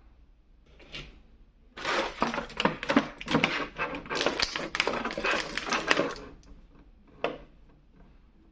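Toy packaging being handled and opened: a burst of rapid crackling and clicking of plastic and cardboard for about four and a half seconds, with a single sharp click before it and another near the end.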